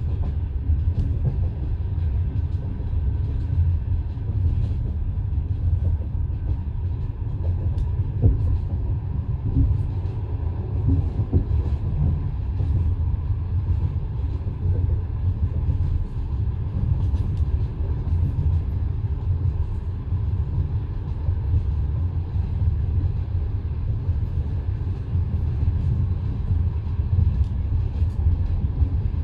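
Passenger train coach running along the line, heard from inside: the wheels rumble steadily on the rails, with scattered light clicks.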